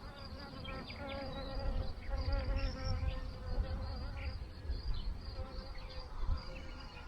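A flying insect buzzing, its hum wavering a little in pitch and fading over the last few seconds, over a low rumble of wind on the microphone.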